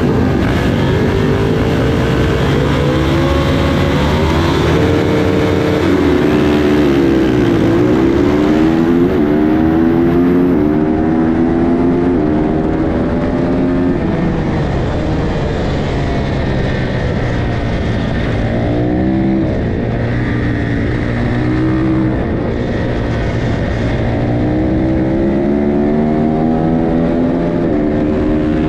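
A pack of small road-racing motorcycles accelerating hard together at a race start. Several engines overlap, each climbing in pitch and dropping back as it shifts up through the gears.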